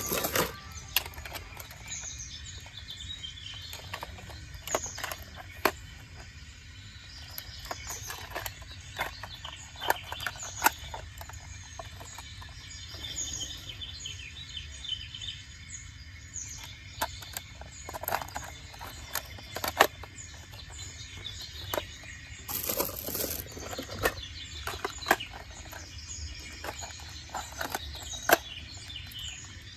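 Small birds chirping on and off over a steady low background hum, with scattered sharp clicks and knocks and a louder rustling burst about two-thirds of the way through.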